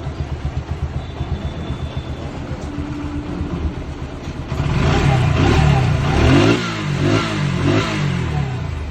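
Bajaj Pulsar NS125's single-cylinder engine idling with an even pulse, then revved up and let back down several times from about halfway through.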